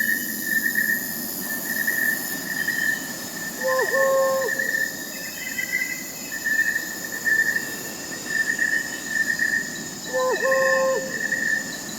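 Crickets chirping in a steady, pulsing trill, with a fainter high insect layer above. A short hooting owl call sounds twice, about four seconds in and again near the end.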